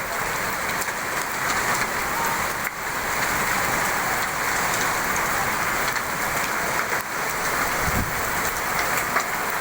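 Heavy rain mixed with hail falling, a steady hiss with scattered small ticks, and a brief low thump about eight seconds in.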